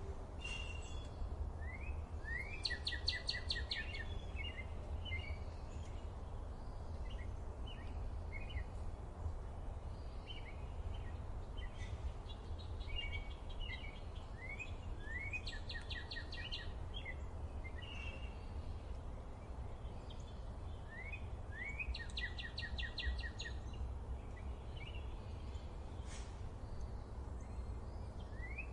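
Forest birdsong: one bird repeats a short song of a few rising notes ending in a fast trill, three times, while other birds give scattered short chirps, over a steady low background rumble.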